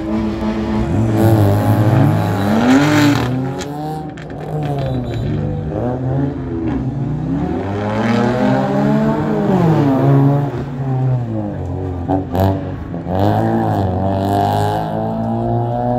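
BMW M2 Competition's twin-turbo straight-six being driven hard around a cone course: the revs climb and drop again and again, roughly every two seconds, as the car accelerates and lifts between the turns.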